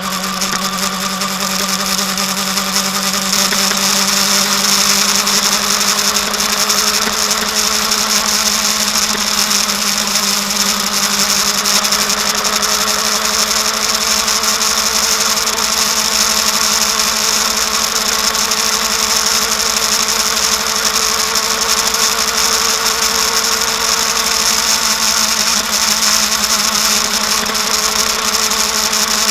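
Kawasaki Ninja ZX-10R's inline-four engine running at a steady speed, its pitch drifting only slightly, under a steady high hiss of wind.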